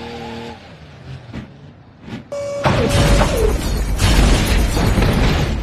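A sudden loud crash, like an explosion, that begins about halfway through and keeps going as a dense rumbling noise, just after a brief steady tone.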